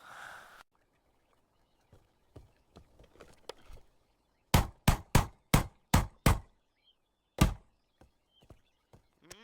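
A quick run of seven sharp knocks, about four a second, then a single knock a second later, after a few faint clicks.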